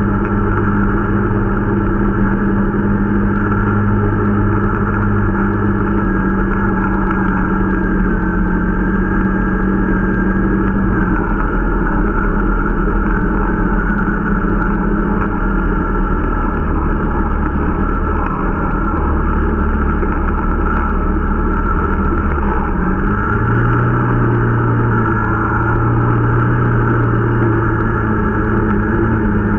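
Irbis Dingo T125 snowmobile's 125 cc engine running steadily under way. Its engine speed drops about a third of the way in and picks up again about three quarters of the way through.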